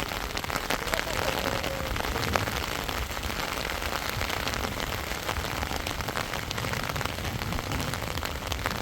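Heavy rain falling steadily, with many sharp close drop hits.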